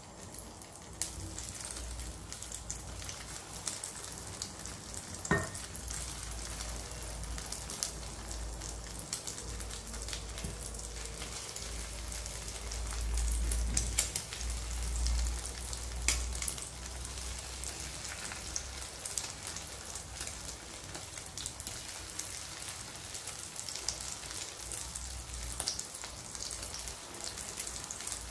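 Pork luncheon meat frying in hot cooking oil in a pan: a steady sizzle with frequent sharp pops of spitting oil. There is a single louder knock about five seconds in.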